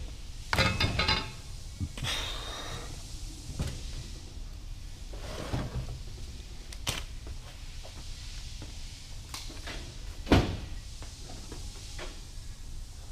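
Hand tools and metal parts of a manual transmission being worked on during teardown: scattered clinks, scrapes and knocks, a quick run of clicks about half a second in, and one sharp metal knock about ten seconds in.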